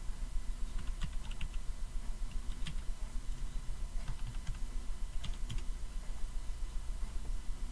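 Typing on a computer keyboard in a few short bursts of key clicks, entering a search. A steady low electrical hum runs underneath.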